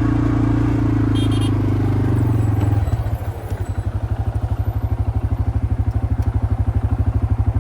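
Quad bike engine running steadily, then dropping to idle at about three seconds, after which it settles into a regular putting throb of several beats a second.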